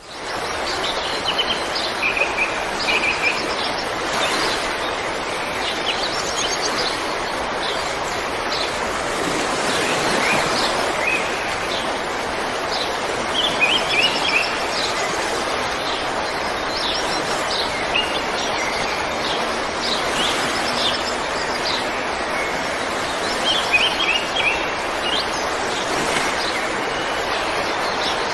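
Steady rush of a flowing river, rising in at the start, with small birds chirping over it in quick short series throughout.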